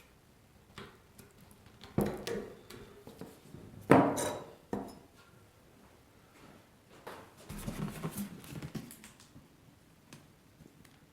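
Workshop clatter of hard parts and tools being handled and set down: sharp knocks about two and four seconds in, then a rattling, clattering stretch around eight seconds in.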